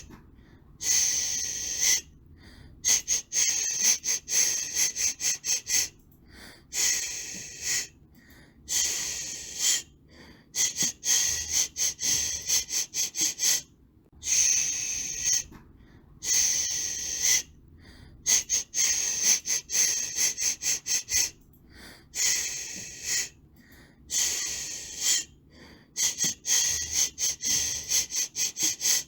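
White noise for soothing a baby, made as a high hiss that comes in a rhythm: hisses of about a second alternate with quick runs of short pulses, with brief breaks between them.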